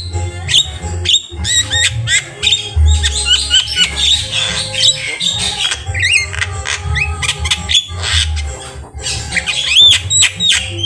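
Jalak kebo (Javan myna) singing a fast, varied song of rising and falling whistles, harsh squawks and sharp chattering notes, over a steady low drone.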